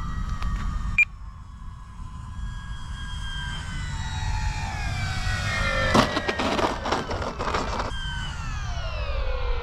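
RC airplane's motor and propeller buzzing in flight, the pitch rising as it comes closer and falling away as it passes, with wind rumbling on the microphone. A sharp click about a second in, and rough buffeting noise between about six and eight seconds.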